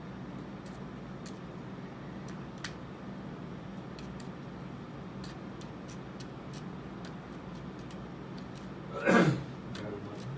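Faint, scattered light clicks and taps as plaster of Paris paste is put into the moulds, over a steady low hum. One short, loud sound stands out about nine seconds in.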